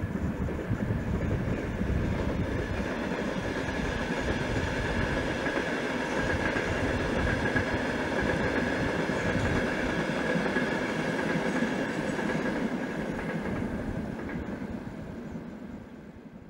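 Passenger train running across a river bridge: a steady rumble of wheels on rail that fades away over the last few seconds as it passes.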